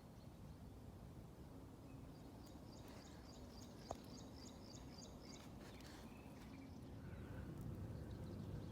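Quiet forest ambience with a low background rumble. Midway a small bird sings a quick run of about ten high, evenly repeated notes, and a single sharp click is heard just before the song ends.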